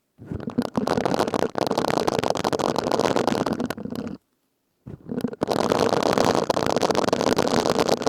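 Silicone scrubbing sponge rubbed and squeezed close to the microphone, a dense crackly scratching. It comes in two long stretches with a short silent pause a little past halfway.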